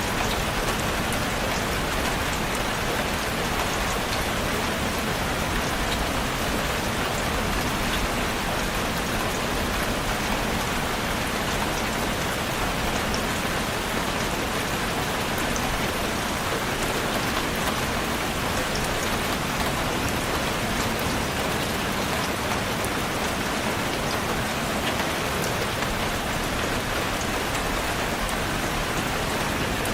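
Steady rainfall: a constant, even hiss of rain with drops pattering on a surface, unchanging throughout.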